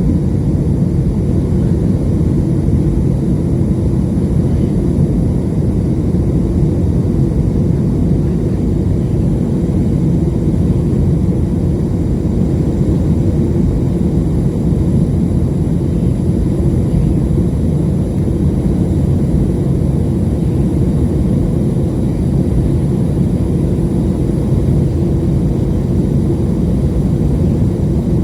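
Steady low rumble of a passenger airplane cabin in flight: engine and airflow noise, even and unchanging throughout.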